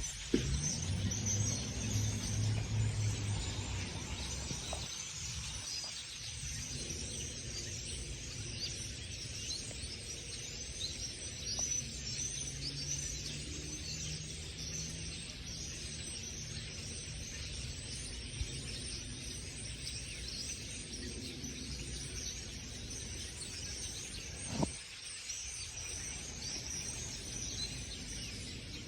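A large flock of birds chirping and calling, many short overlapping high chirps at once, over a low steady hum.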